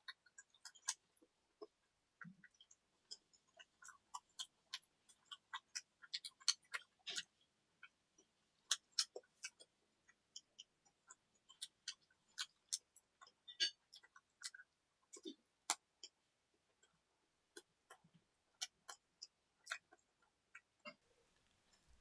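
Pizza being chewed close to the microphone: a quick, irregular string of small mouth clicks and crackles.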